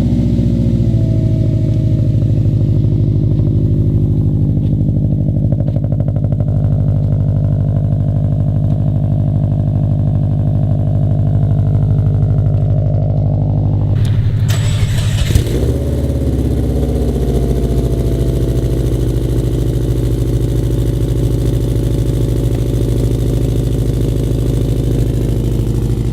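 Subaru WRX turbocharged flat-four engine idling steadily just after a cold start. A short loud burst about halfway through breaks the idle, which then carries on steadily.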